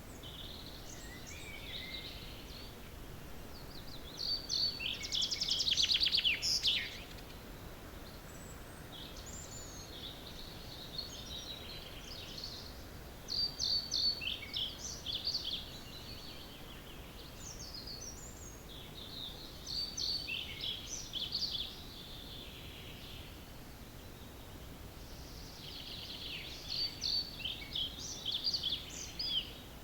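Songbirds singing at dawn: short phrases of quick, high notes come every few seconds, the loudest about five seconds in, over a faint steady background hiss.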